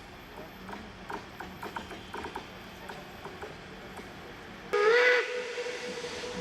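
Scattered light clicks and knocks, then about three-quarters of the way in a railway locomotive whistle sounds suddenly and loudly with a slight rise in pitch. After about half a second it settles to a quieter steady tone that carries on.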